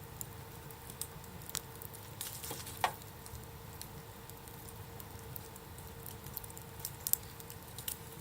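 Wood campfire crackling, with irregular sharp pops scattered through, the loudest about three seconds in.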